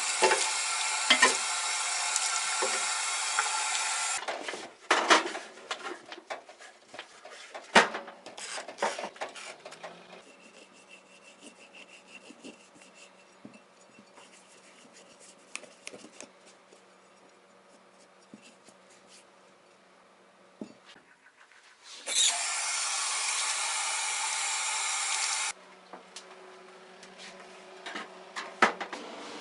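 A small electric power tool runs steadily for about four seconds, then stops. Handling clicks, taps and scraping follow, then a quiet stretch, before the tool runs again for about three seconds near the end.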